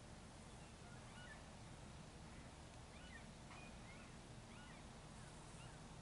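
Faint, scattered short bird chirps, a dozen or so brief curved notes, over a low steady background rumble.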